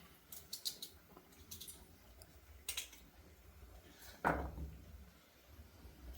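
A few light clicks and rustles, then a single dull knock about four seconds in.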